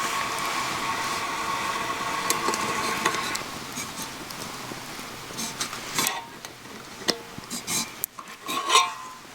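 Food sizzling in a pan over a campfire, dying down after about three seconds, followed by scattered clinks and scrapes of a metal utensil against the pan, loudest near the end.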